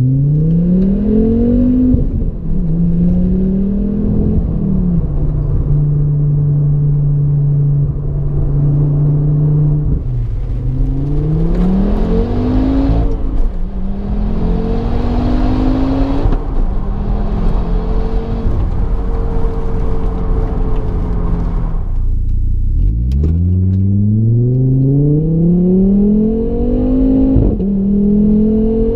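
Volvo V70 R's turbocharged inline five-cylinder engine and exhaust pulling through the gears. The pitch climbs, drops sharply at several upshifts, holds steady during stretches of cruising, and climbs hard again near the end.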